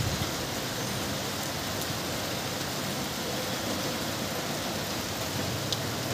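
Rain falling steadily on clay-tiled roofs and a wet street, a continuous even hiss, with a few low bumps at the very start.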